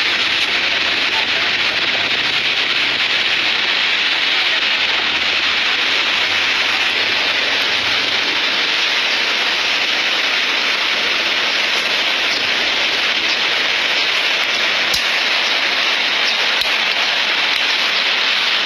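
Big ocean waves breaking, a steady loud rushing hiss with no lull.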